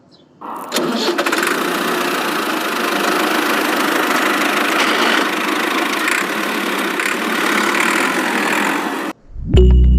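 A motor running steadily with a dense, noisy sound that starts about half a second in and cuts off abruptly near the end, followed at once by music.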